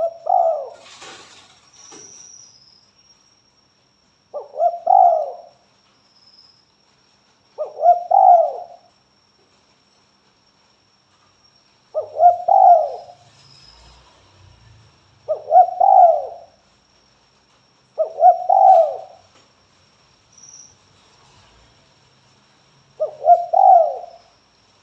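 Spotted dove (tekukur) cooing: seven short phrases of a few coos each, one every three to four seconds. A faint steady high whine runs underneath.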